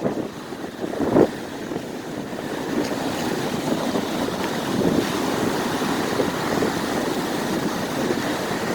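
Rough, heavy surf washing ashore under strong wind, with wind buffeting the microphone: a steady rushing noise with a louder burst about a second in.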